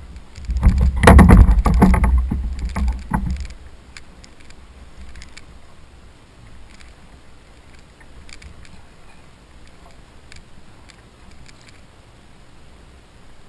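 Water splashing and knocking against a kayak hull, loud for the first few seconds, then settling to faint lapping with scattered small clicks.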